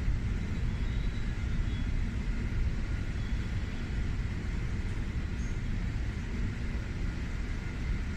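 Steady low rumble of a Shinkansen station platform, with faint thin steady tones above it.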